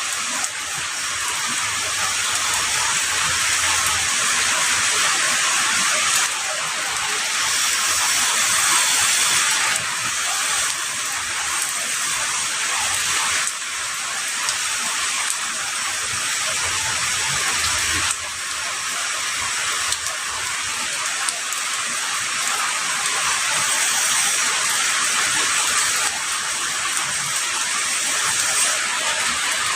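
Heavy rain falling steadily, a dense, even hiss with no separate drops heard. Its texture shifts abruptly a few times.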